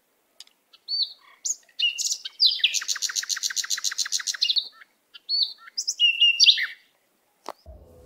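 A songbird singing: a few high whistled notes, then a rapid trill of about eight notes a second lasting about two seconds, then more short whistled phrases.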